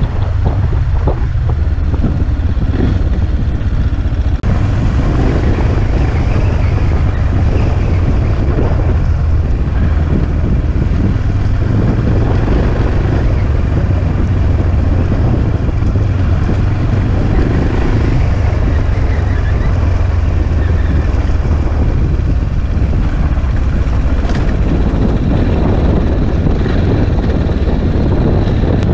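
Motorcycle engine running steadily while riding a dirt trail, loud and low, with wind buffeting the onboard camera's microphone.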